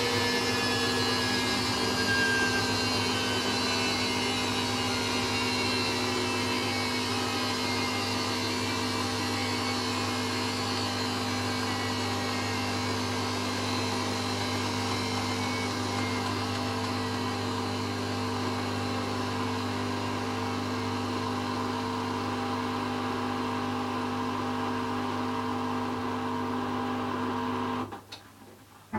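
Hoover DYN9144D3X washing machine on its final 1000 RPM spin: a steady motor hum and drum whine, with high tones sliding slowly down in the first few seconds. The sound cuts off abruptly near the end.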